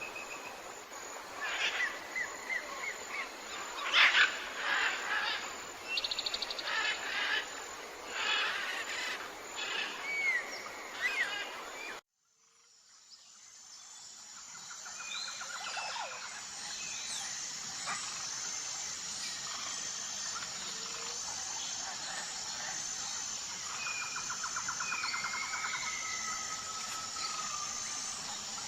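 Tropical forest ambience with many birds calling, chirping and trilling. About twelve seconds in, the sound cuts out abruptly and fades back in on another forest recording: a steady, high, pulsing insect chirr with occasional bird trills over it.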